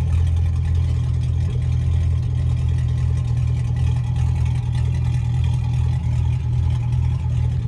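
A 2001 Chevy Silverado 1500's 5.3-litre V8 idling steadily, heard at the exhaust by the muffler.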